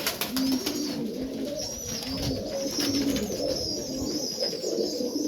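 Serbian Highflyer pigeons cooing over and over in a loft, a low rolling coo about once a second, with thin high chirping mixed in.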